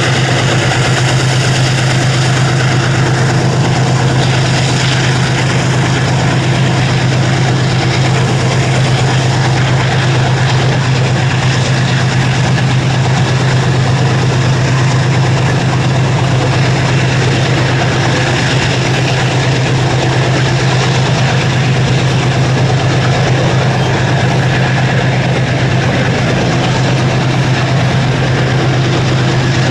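Diesel locomotive engine idling: a loud, steady low hum that does not change.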